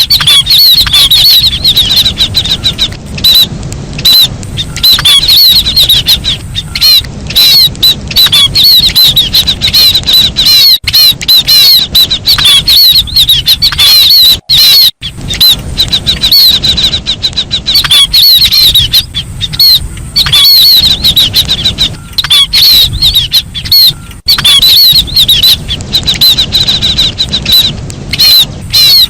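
A loud recording of chim ri (cu lý) calls, the kind played as a hunting lure: quick, high-pitched chirping notes repeated in rapid phrases with brief gaps, over a low rumble of noise.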